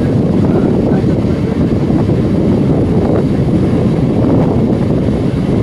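Steady, loud rumble of an Indian Railways EMU local train running at speed, heard from on board.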